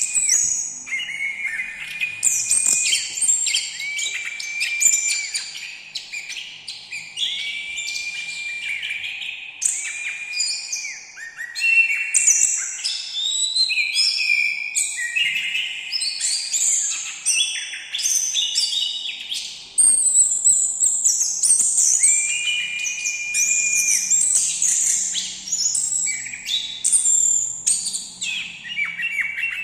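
Anis thrush singing a continuous, varied song of whistles and chirps, with repeated level whistled notes among quicker twittering phrases.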